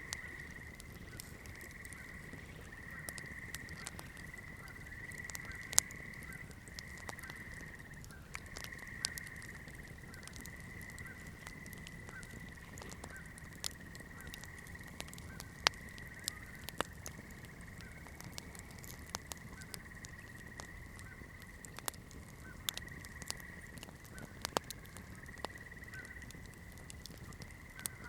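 Wood campfire crackling, with irregular sharp pops and snaps, a few of them loud. Under it runs a steady high-pitched trill that breaks off briefly now and then.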